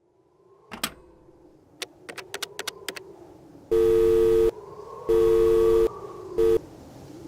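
Telephone line sound: a few handset clicks, then a steady two-note phone tone pulsing three times, twice long and once short, like a busy signal.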